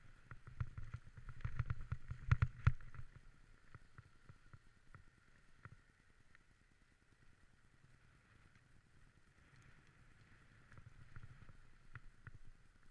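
Dog sled moving over snow: a steady scrape of the runners with a run of crunching knocks and jolts, loudest in the first few seconds and again weaker near the end.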